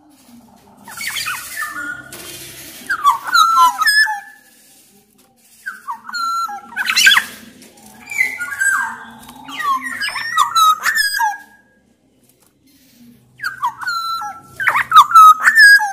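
Black-naped oriole (kepodang emas) singing loudly: bursts of liquid whistled notes with quick high rising notes, coming in several phrases with short pauses between them.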